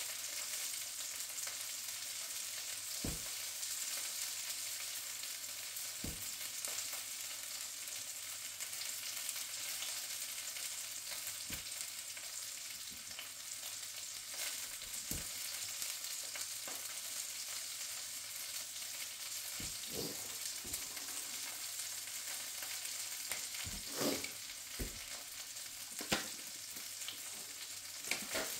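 Sausage links frying in a pan on a gas burner: a steady sizzle broken by occasional sharp pops of spitting fat, two of the loudest near the end.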